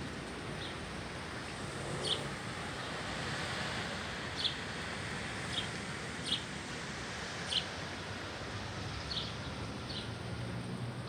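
Small birds giving about eight short, high chirps, a second or two apart, over steady wind noise.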